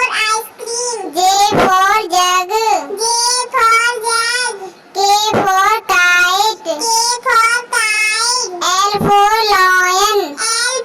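A young child singing an alphabet rhyme in a high voice, with long drawn-out notes and short breaks between lines, without instrumental backing.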